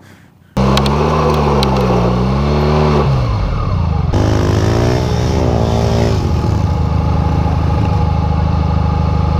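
Motorcycle engine running with the throttle rising and falling, starting abruptly about half a second in. The sound cuts sharply to another stretch of engine about four seconds in.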